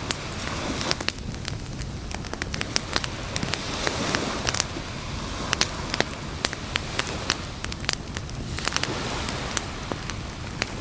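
Campfire crackling: many sharp, irregular pops and snaps from burning wood over a steady rushing hiss.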